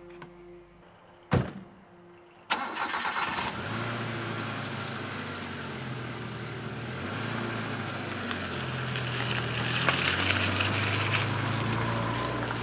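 A single sharp thump, then about a second later a car engine starts abruptly and keeps running, its low note shifting up and down and growing louder near the end.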